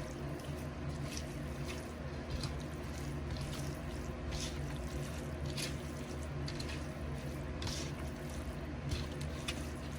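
Raw chicken pieces being mixed with spices and liquid: soft, irregular wet squishing and squelching, in short bursts spaced unevenly.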